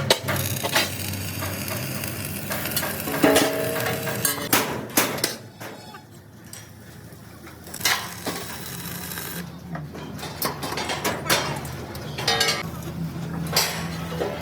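Steel fabrication work: irregular metal clanks and knocks with a crackling hiss, and a quieter stretch in the middle.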